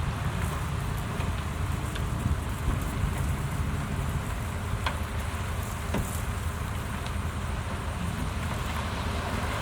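Diesel engine of heavy earthmoving machinery running steadily, with a few faint clicks.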